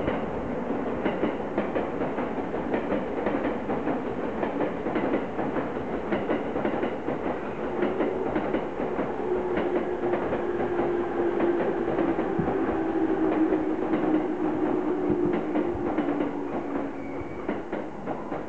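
Electric trains running through the station: continuous clatter of wheels over rail joints. About halfway through a low motor whine comes in, holds steady, then drops slightly in pitch before fading near the end.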